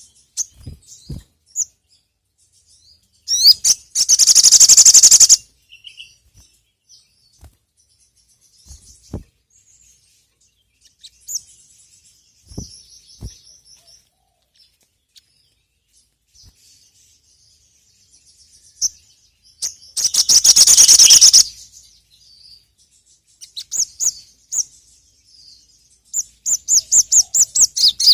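Sogon (ruby-cheeked sunbird) singing high-pitched chirps, broken by two loud, very rapid trills of about two seconds each, a few seconds in and again about two-thirds of the way through. A fast run of repeated notes follows near the end.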